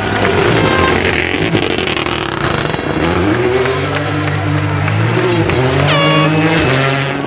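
Rally car at full throttle, engine pitch climbing and stepping down through several quick upshifts.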